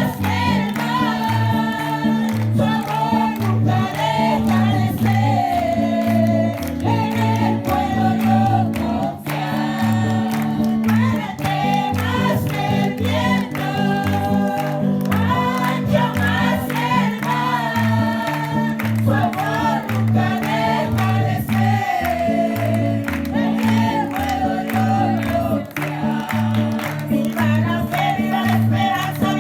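A group singing a revival worship chorus over instrumental accompaniment, with a steady repeating bass line and beat.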